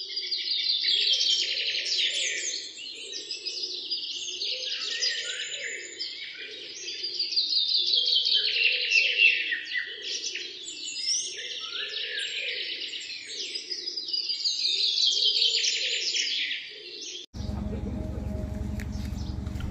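Songbirds chirping and trilling in dense phrases that swell and fade every few seconds. The birdsong cuts off suddenly near the end.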